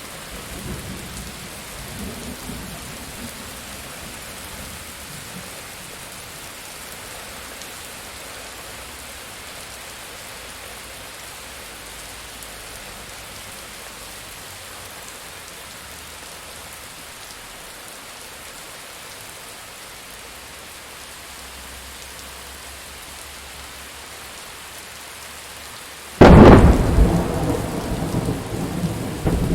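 Steady rain with distant thunder rumbling faintly in the first few seconds, then a sudden loud thunderclap near the end that breaks into a long rolling rumble.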